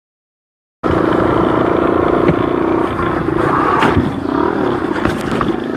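Motorcycle engine running steadily under way, mixed with wind and road noise on the rider's camera, cutting in abruptly just under a second in, with a few sharp clicks near the end.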